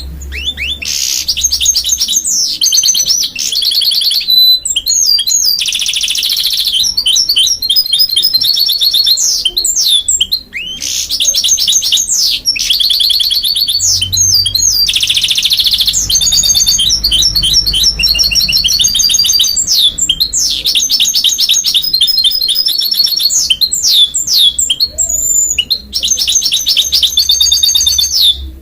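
Goldfinch × canary mule singing a long, fast, warbling song of rapid trills and twittering phrases, almost without pause.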